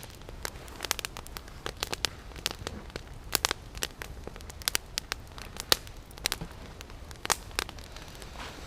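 Campfire of deadwood crackling, with irregular sharp pops several times a second.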